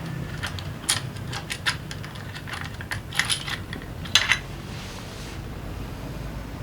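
Metal tools and small engine parts clinking and tapping against each other, about a dozen sharp clinks with the loudest cluster a little after four seconds in, as the scooter engine is being taken apart.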